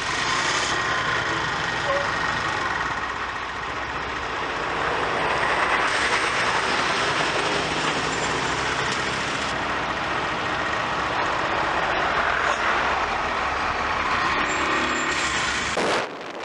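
Motorbike engine running, with steady wind and road noise while riding; the sound cuts off suddenly near the end.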